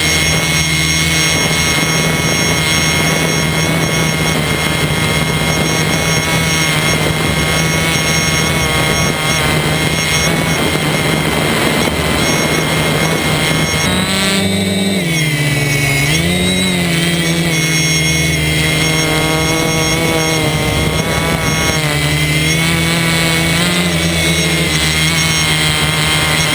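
DJI F450 quadcopter's electric motors and propellers whirring in flight, a steady loud hum. About halfway through the pitch drops sharply and swings back up as the throttle is cut and reapplied, then holds steady again.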